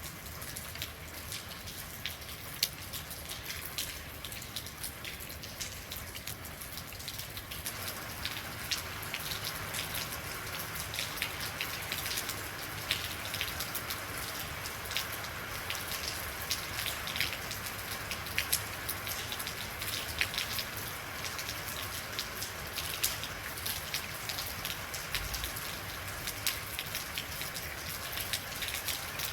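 Real rain falling steadily, with a dense patter of individual drops hitting surfaces; the rain gets a little heavier about eight seconds in.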